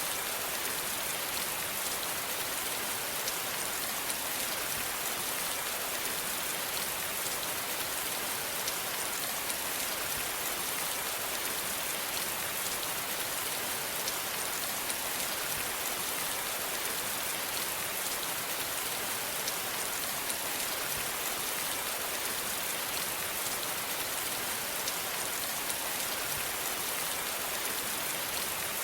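Steady rain falling on a surface, a continuous even hiss with scattered drop ticks.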